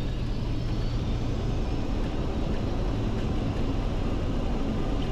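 Boeing 737-200's Pratt & Whitney JT8D engines running in reverse thrust during the landing rollout, a steady noise with a deep rumble heard inside the cockpit, and a faint rising whine in the first second or two.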